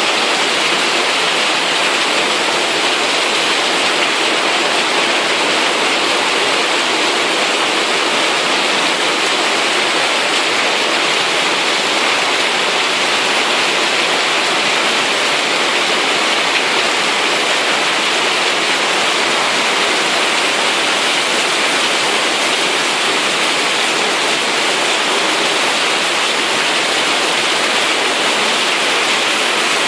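Heavy rain pouring down in a steady, unbroken hiss during a rainstorm.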